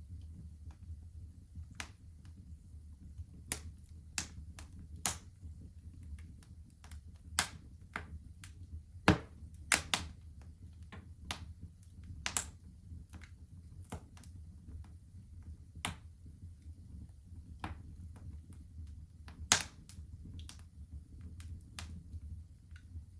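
Wood fire crackling in a fireplace: irregular sharp pops and snaps, roughly two a second, with a few much louder cracks, over a steady low rumble.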